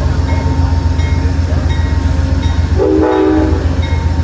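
Amtrak diesel locomotive idling with a steady low rumble, sounding one short horn blast about three seconds in as the train prepares to depart.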